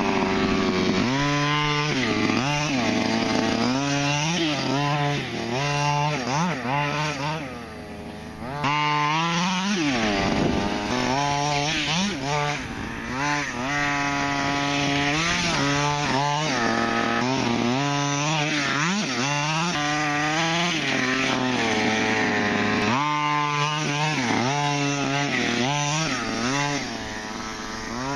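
HPI Baja 5B RC buggy's small two-stroke gas engine, fitted with a cone air intake and dual exhaust, revving up and dropping back over and over as it is driven. It falls to a lower, quieter idle briefly about eight seconds in and again near the end.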